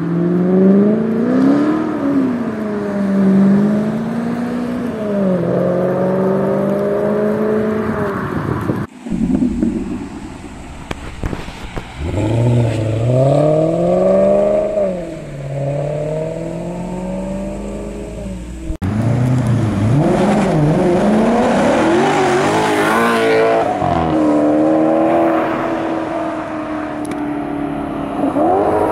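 Maserati GranTurismo S 4.7-litre V8 accelerating hard. The engine note climbs and then drops back several times as it shifts up through the gears. It comes in three separate takes, with sudden cuts about a third and two thirds of the way through.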